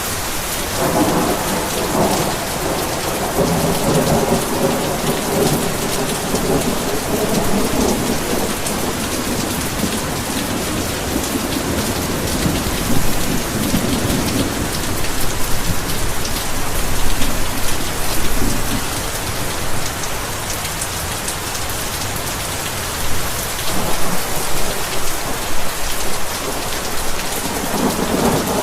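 Heavy rain pouring steadily, with a long roll of thunder rumbling through the first half and another beginning near the end.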